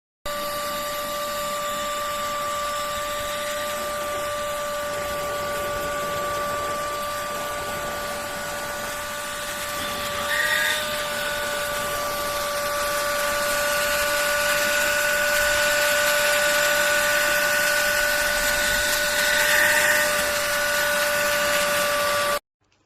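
ST6101 PRO cordless handheld vacuum cleaner running: a steady high motor whine over a rushing airflow hiss, with brief changes in the sound about halfway through and again near the end. It stops abruptly just before the end.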